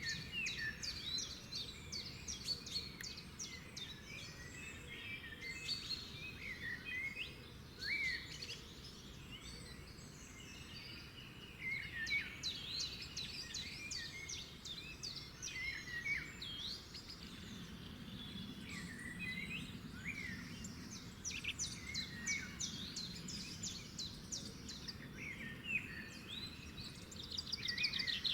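Several songbirds singing at once, a dense chorus of chirps, quick trills and short whistled glides, over a low background hiss.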